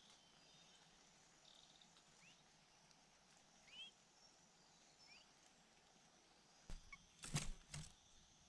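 Faint, short, rising bird chirps every second or so, over a faint steady high hiss. Near the end comes a quick cluster of loud knocks and rustles.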